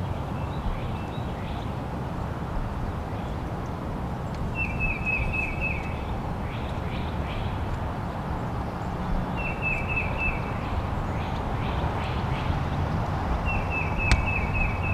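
A bird calling three times, about four seconds apart, each call a quick run of about five short high notes, with a few fainter chirps between. A steady low background rumble runs underneath.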